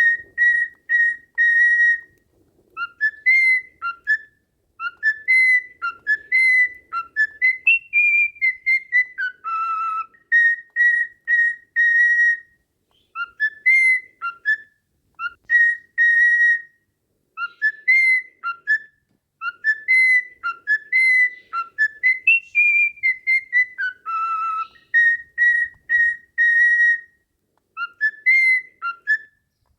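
A whistled training tune of clear, pure notes with quick upward slurs, played as a looped phrase that starts over about every eleven seconds.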